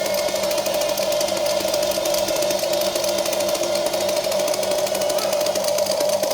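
Small electric motor and gearbox of a Huina radio-controlled toy excavator running with a steady whine.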